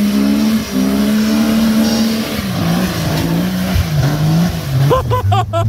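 Off-road 4x4's engine running under load, held steady for about two seconds and then revving up and down as it works through a muddy obstacle. A few short rising squeaks sound near the end.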